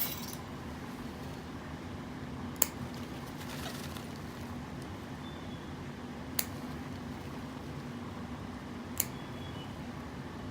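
Steady low room hum with three sharp, isolated clicks a few seconds apart, and two faint, short high chirps from a budgie.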